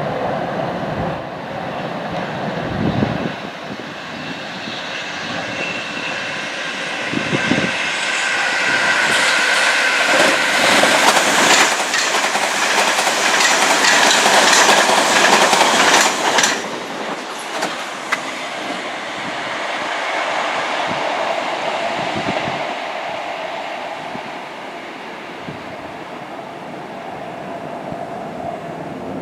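A train passing, growing louder to its peak from about ten to sixteen seconds in, with a high whine above the rumble, then dropping off sharply and fading away.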